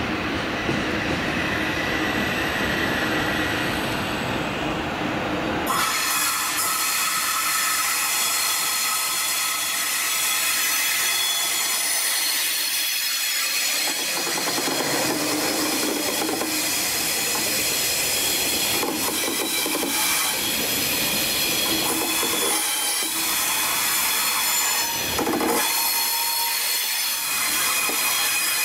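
SNCF TGV high-speed train: a low rumble as it comes out of the tunnel, then, about six seconds in, a high-pitched wheel squeal of several steady tones as the train runs slowly along the platform.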